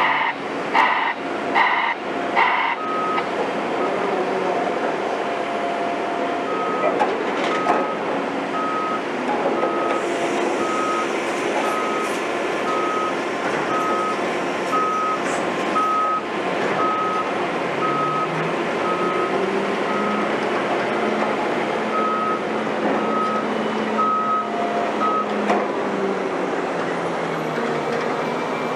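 Construction machines' reversing alarms beeping over diesel machinery noise: a harsher multi-tone beep that stops about two seconds in, then a higher single-tone beep at about one and a half beeps a second that stops near the end.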